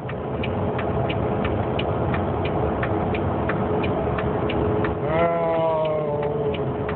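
Semi truck's engine and road noise droning steadily inside the cab, with a steady hum and regular clicks about twice a second. About five seconds in, a drawn-out sound falls in pitch for about a second and a half.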